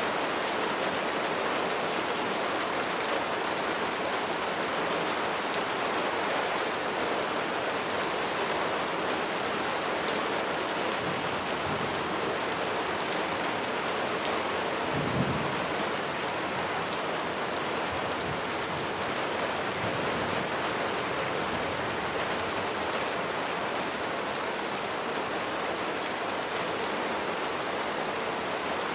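Steady heavy rain falling, with individual drops ticking on a surface, and a brief low rumble of thunder about halfway through.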